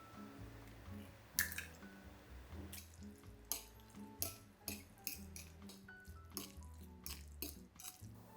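Soft background music with a run of sharp clicks and clinks over it, the loudest about a second and a half in, then a dozen or so more in an uneven string, typical of dishes and utensils being handled at a kitchen sink.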